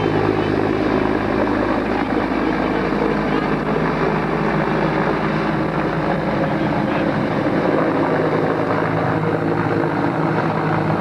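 Helicopter running close by: a steady, loud drone of rotor and engine with a low, even hum that holds without a break.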